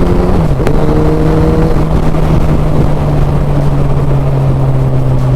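Suzuki Hayabusa's 1340 cc inline-four engine running under way, over heavy wind noise. The engine note dips sharply about half a second in, then holds steady and sags a little lower.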